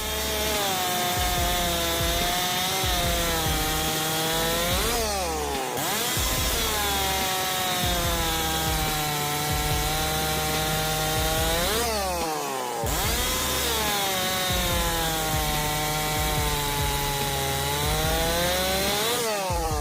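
STIHL 064 chainsaw, its single-cylinder two-stroke engine cutting through wood. Its pitch sags under load through each of three long cuts and shoots back up each time the chain breaks free, about every seven seconds.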